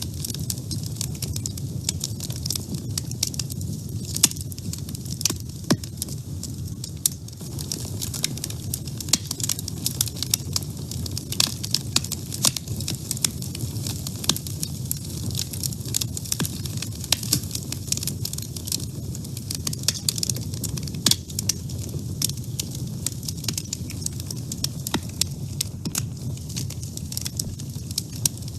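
Wood fire crackling in a woodstove: many small, irregular pops and snaps over a steady low rumble of burning.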